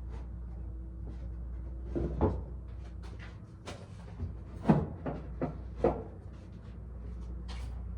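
A box fan being lifted down and handled: a series of knocks and clunks, about half a dozen, the loudest near the middle, over a steady low hum.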